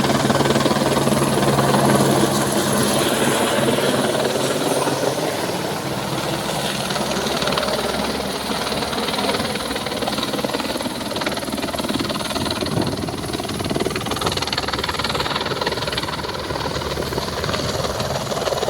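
Helicopter engine and rotor noise, loud and steady, with a low drone that fades after about six seconds.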